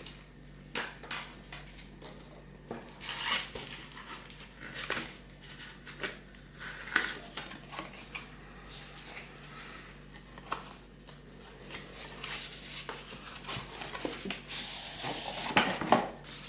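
Irregular close handling noises: rustles, light taps and clicks, with the loudest cluster near the end.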